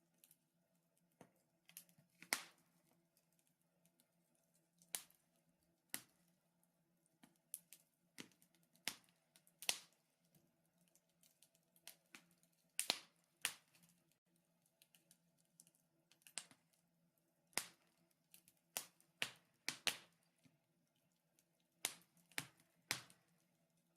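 Wood fire crackling in a fireplace: sparse, irregular sharp pops and snaps, a few every couple of seconds.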